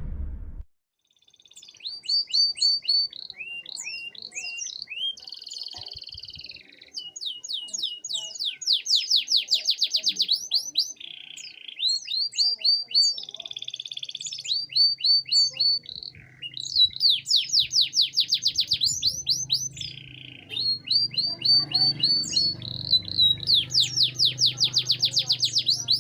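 Domestic canary singing a long song of fast trills and rolls, each run of rapid repeated high notes broken by short pauses. A faint low hum sets in about halfway through.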